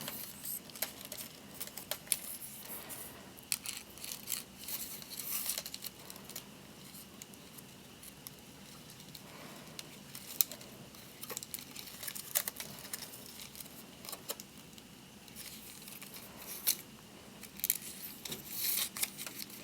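Palm branch strips rustling and crackling in the hands as they are woven, pulled and tucked: scattered small crisp crackles and clicks with short bursts of rustling.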